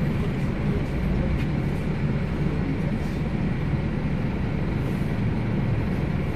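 Steady engine and road noise heard from inside a Scania K270UB Omnilink single-deck bus under way.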